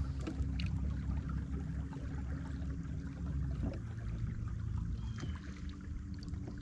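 River water running and lapping around a small fishing boat, a steady low rumble with a faint, even hum under it and a few light ticks.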